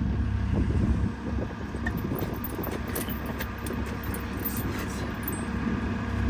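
CAT 914 wheel loader's diesel engine idling steadily, with light metallic clinking of tire chains being handled.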